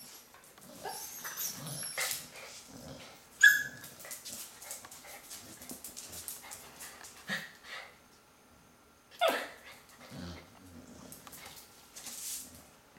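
Dogs tussling, with scattered scuffling noises and two sharp barks, one about three seconds in and a louder one about nine seconds in that drops in pitch.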